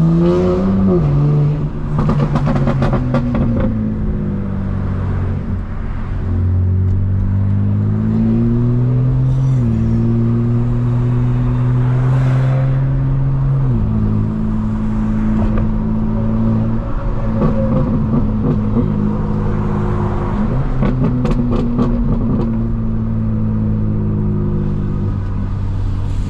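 Straight-piped BMW M4 Competition's twin-turbo inline-six, tuned to about 900 hp, accelerating and shifting. The engine note climbs and then drops sharply with each shift, about a second in, near ten seconds and near fourteen seconds. Rapid exhaust pops come about two seconds in and again around twenty-one seconds.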